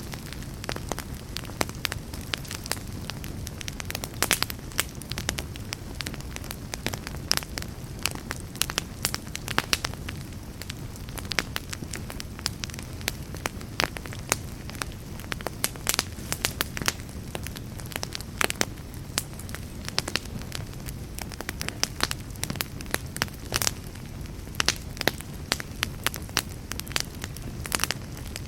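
Wood logs burning in a fireplace, crackling with many sharp, irregular pops over a steady low rumble of the flames.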